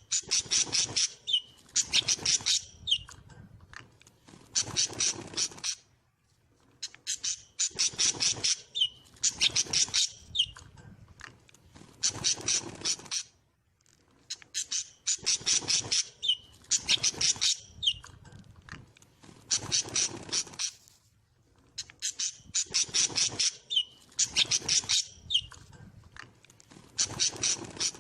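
Pet birds giving harsh, rasping squawks in quick bursts, three or four close together and then a short pause, the pattern recurring about every seven seconds.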